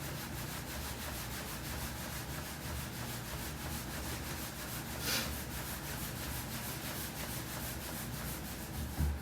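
Soba dough being rolled out on a wooden board, a wooden rolling pin rubbing and rolling steadily over the dough. There is a brief, sharper swish about five seconds in.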